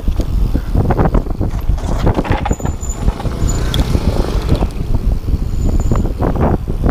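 Wind buffeting the microphone during a fast mountain-bike descent, with the bike rattling and knocking over rough ground throughout. A few short high squeaks come through around the middle and again near the end.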